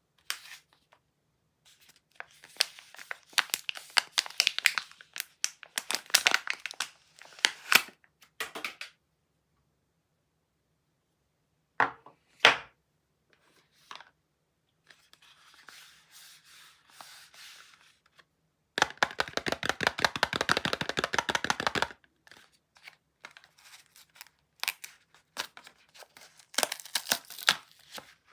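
Soap packaging being unwrapped by hand: bursts of paper or plastic wrapper tearing and crinkling with quiet pauses between, a couple of sharp clicks near the middle, and a dense stretch of rapid tearing about two-thirds of the way through.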